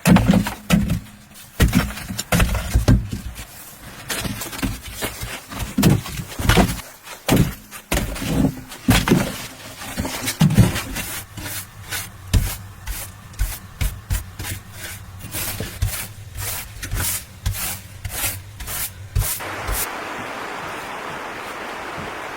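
Knocks and scraping on wood from hand work, irregular at first, then a quick, regular series of taps that stops a little before the end, giving way to a steady hiss.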